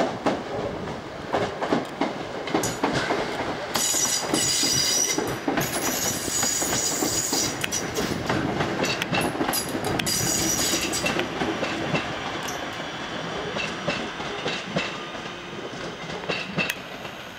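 Class 323 electric multiple unit running through the station, its wheels clicking over rail joints and points. High-pitched metallic squealing comes in two spells, a few seconds in and again around ten seconds in.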